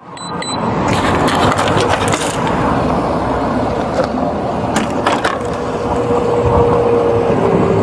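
Vehicle in motion at pursuit speed: steady engine, road and wind noise, with a few sharp clicks and rattles about a second in and again about five seconds in.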